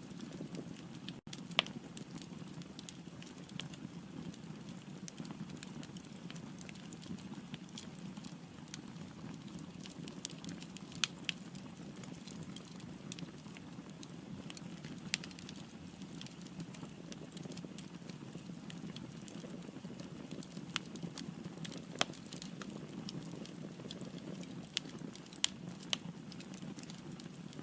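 Firewood burning in a fireplace: a steady low rumble of flame with irregular sharp crackles and pops, a handful of them louder than the rest.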